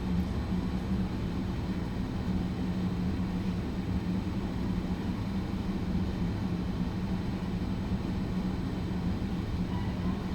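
Steady low mechanical hum with an even background noise, unchanging throughout.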